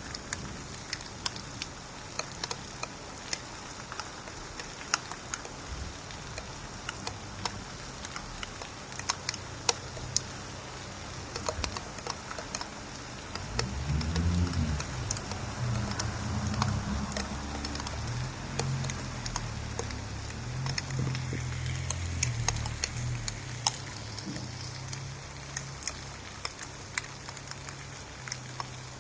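Steady rain with close raindrops ticking. About halfway in, a low rumble of distant thunder comes in and rolls on until near the end.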